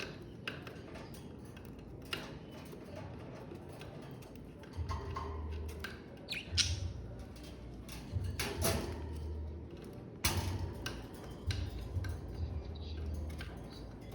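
Budgerigars chirping and squawking in short, sharp calls scattered irregularly, with a few louder squawks in the middle.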